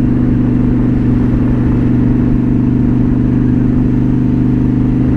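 2007 Honda Shadow Spirit 750's V-twin engine running through a Cobra Streetrod Slashdown exhaust, holding a steady pitch while the bike cruises.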